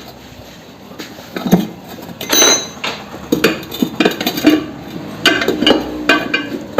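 Metal tools clinking and knocking against a motorcycle wheel rim and tyre in irregular strikes, some with a short metallic ring.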